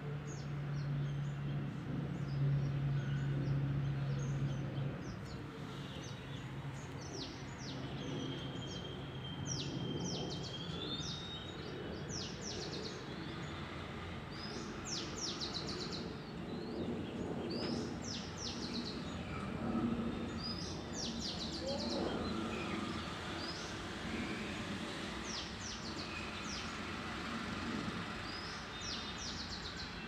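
Small birds chirping, many short high calls again and again, over steady outdoor background noise. A low steady hum fades out about five seconds in.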